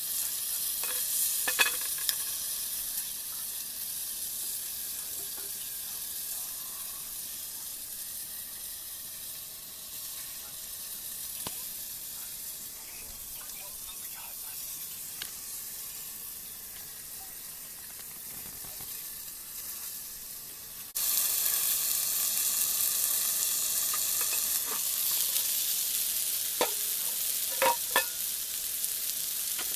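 Food sizzling in a frying pan over a campfire: a steady frying hiss with occasional sharp pops and crackles, jumping abruptly louder about two-thirds of the way in.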